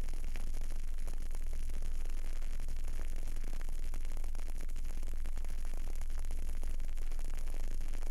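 Close-miked burning candle: a steady hiss and low hum with frequent small, irregular crackling ticks.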